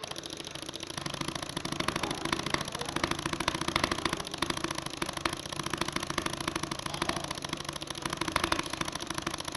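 A computer mouse button clicked extremely fast in a click-speed run, about thirteen to fourteen clicks a second in an unbroken, even rattle.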